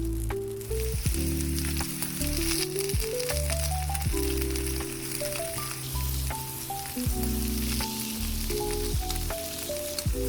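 Food sizzling and frying with a steady crackling hiss and occasional sharp clicks, under background music whose melody steps up and down over held bass notes.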